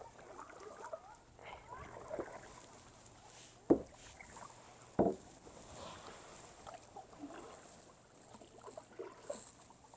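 Kayak being paddled and manoeuvred to a stop, with faint small splashes and drips from the paddle in the water. Two sharp knocks about a second apart, the loudest sounds, come a little before the middle.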